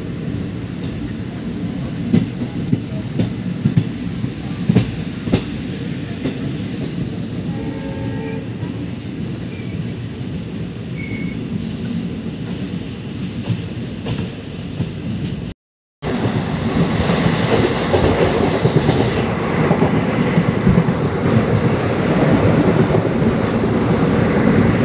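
Express train running, heard from an open window of a passenger coach: a steady rumble of wheels on the rails, with clicks over the rail joints. After a cut about 15 seconds in, the rush of wind and wheel noise is louder.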